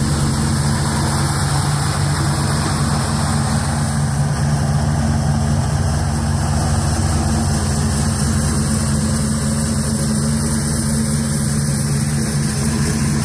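Engine of a 1955 Chevrolet truck idling steadily, with no change in speed.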